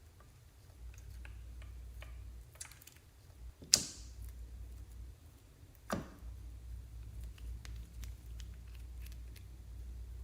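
Slime being handled: scattered small clicks and crackles, with two sharper snaps about four and six seconds in.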